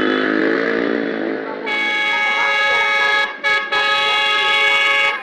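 Train's multi-tone air horn sounding a long blast that starts about a second and a half in, breaks off twice briefly in the middle, then carries on and cuts off abruptly. An engine can be heard beforehand.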